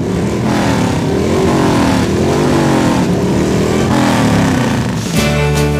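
Motorcycle engines revving, the pitch rising and falling over and over. About five seconds in, country guitar music starts.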